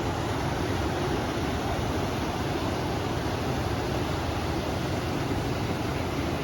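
River water flowing with wind blowing: a steady, even rushing noise with a deep low rumble.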